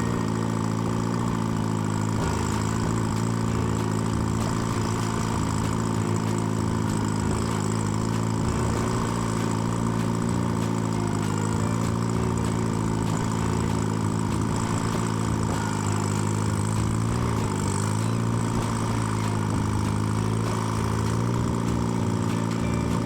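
Tractor engine idling steadily, with a brief dip in engine speed a little past the middle.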